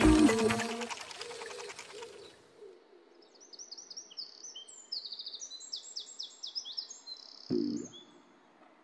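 Music fading out, then a run of quick high bird chirps and twitters lasting several seconds, with a short low sound near the end.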